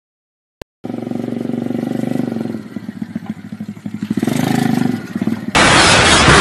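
A motorcycle engine starts sounding about a second in, running steadily, then pulsing unevenly and rising again. About five and a half seconds in, it cuts abruptly to a much louder rushing noise.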